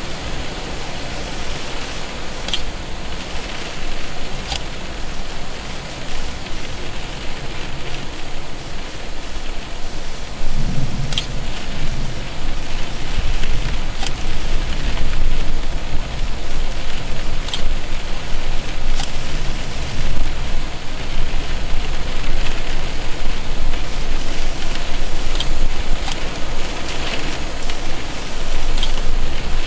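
Steady rain during a thunderstorm, with a low rumble underneath and sharp ticks of drops striking close by every few seconds; the rain grows louder about ten seconds in.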